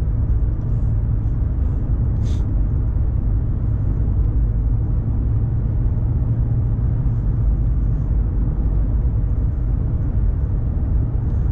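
1990 Mercedes-Benz 420 SEL underway: a steady low rumble of its 4.2-litre V8 and road noise while cruising, with one short tick about two seconds in.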